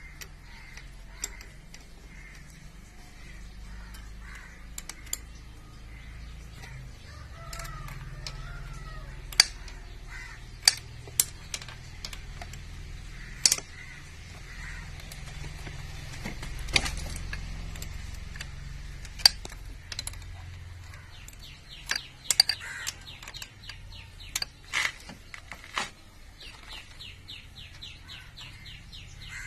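Scattered sharp metallic clicks and taps of spanners and the valve-adjusting tool working the valve-adjuster lock nut on a Bajaj Pulsar 135 LS's four-valve head, with birds calling in the background. A quick run of ticks starts about three quarters of the way through.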